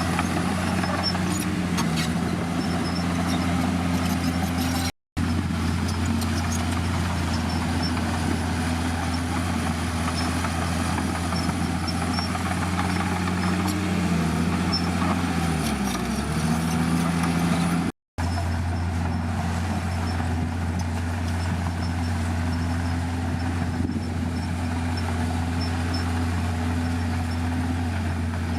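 Heavy diesel engine of a bulldozer running steadily with a low hum. Its pitch sags and then picks back up about halfway through. The sound cuts out for an instant twice.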